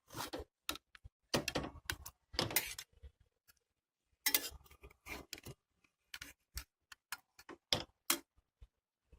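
A cooking utensil clicking and scraping against a frying pan as pieces of fried chicken are turned over, in irregular short clicks and scrapes.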